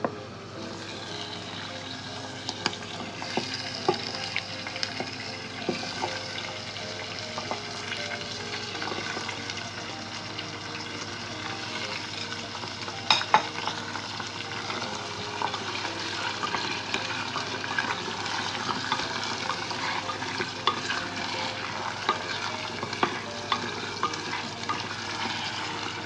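Goat liver pieces sizzling in hot oil with fried onions and whole spices in a pressure cooker, stirred with a wooden slotted spoon that knocks and scrapes against the pot. A couple of sharper knocks come about halfway through.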